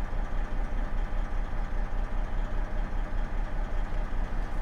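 Semi truck's diesel engine running steadily, heard from inside the cab: a low drone with an even pulse of about five or six beats a second.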